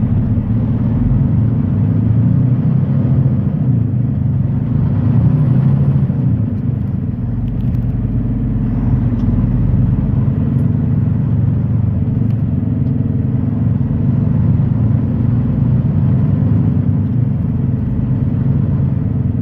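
Semi-truck's diesel engine and road noise heard from inside the cab while driving: a steady low drone with no sudden changes.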